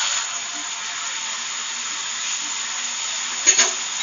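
Stir-fried vegetables with soy sauce steadily sizzling in hot oil in an aluminium kadhai over high flame. A steel ladle knocks sharply against the pan a couple of times about three and a half seconds in.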